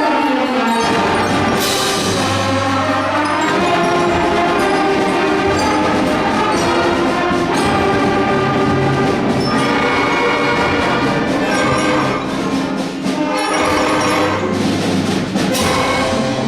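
Student ensemble with brass and percussion playing a loud, full passage of sustained chords, with bright crashes about two seconds in and again near the end.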